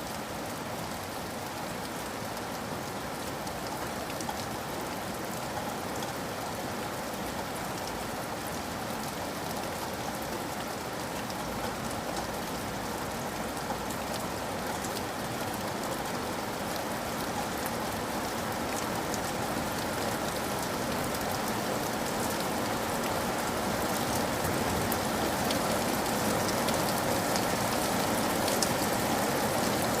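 Steady rain falling, with individual drops ticking through it, growing slowly louder.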